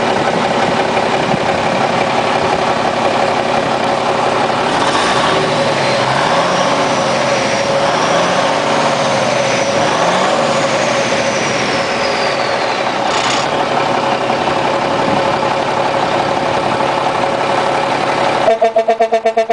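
Cummins diesel truck engine idling steadily. About a second before the end it cuts abruptly to a pulsing tone.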